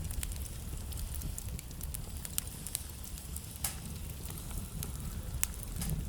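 Wood fire burning in a fireplace, crackling steadily over a low rumble, with irregular sharp pops; the loudest come a little past the middle and near the end.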